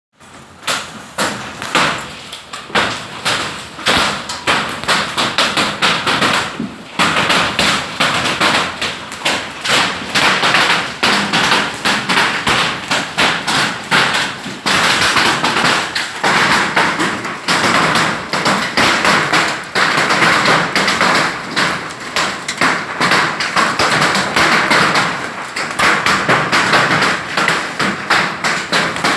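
Hail falling hard: a dense, irregular rattle of hailstones striking, over a steady hiss.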